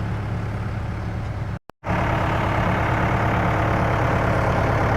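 The engine that drives an old field sprayer's pump idling steadily, with the pump already primed and holding pressure. The sound drops out for an instant about a second and a half in, then comes back louder and closer.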